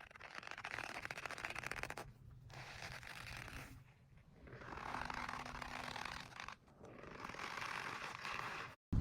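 Something squeaking as it is rubbed or squeezed, in four strokes of a second or two each with short breaks between. Each stroke is a rough, creaking squeak made of rapid fine ticks.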